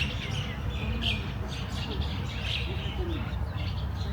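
Small birds chirping and calling in short, repeated chirps, over a steady low rumble.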